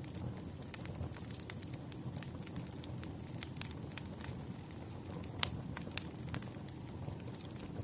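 Wood fire crackling: irregular sharp pops and snaps over a steady low rumble of the burning logs, with one louder pop about five and a half seconds in.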